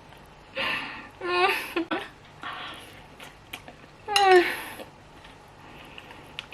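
A person's voice making a few short wordless exclamations or murmurs, the loudest a falling call about four seconds in, with quiet breathy sounds between.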